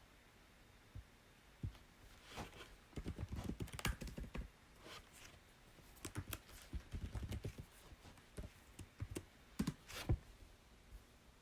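Typing on a computer keyboard: two short runs of rapid keystrokes with pauses between them, and a few scattered single key clicks.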